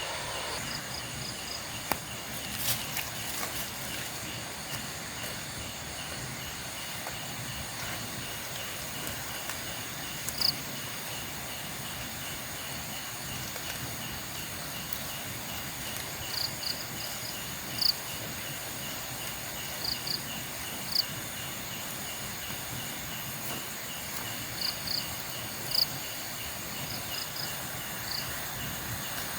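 Night insects, crickets among them, chirping steadily in a fast even pulse over a high buzzing drone, with short high chirps every few seconds, often in twos and threes.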